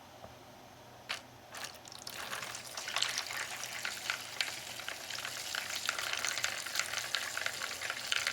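Paint-stripping cleaning solvent poured from a container into a bucket of model car parts: a single knock about a second in, then a steady crackling splash that builds up about two seconds in.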